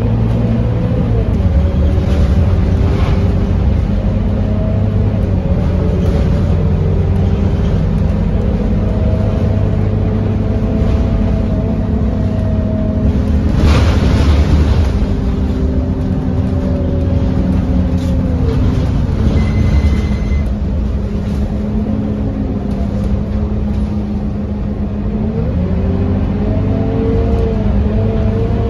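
Scania K230UB city bus's diesel engine and drivetrain running as the bus drives, a steady low rumble with a whine that rises and falls in pitch as it speeds up and slows down. A short loud rushing noise comes about halfway through.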